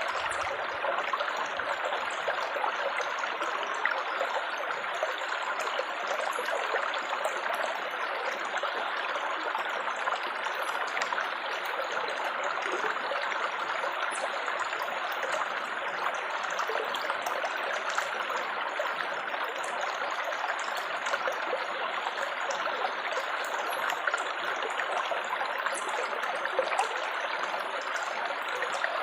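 Steady babbling, trickling water, an even, unbroken splashing flow with faint small droplet ticks over it.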